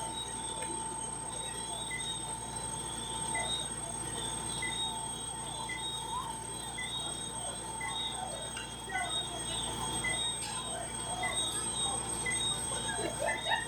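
Night insects chirping: steady high trilling with a short chirp repeating about every two-thirds of a second.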